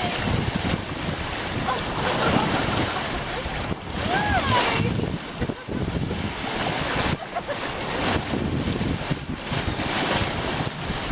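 Wind buffeting the microphone over water rushing along a sailboat's hull under way, with a brief gliding pitched call about four seconds in.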